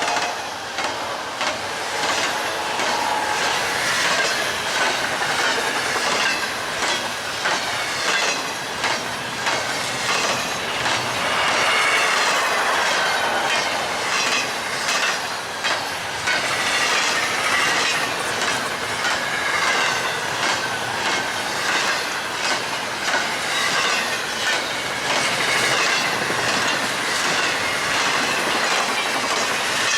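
BNSF train passing close at speed: wheels clicking in a rapid, even rhythm over a steady rush, with a wavering wheel squeal. The horn dies away in the first few seconds.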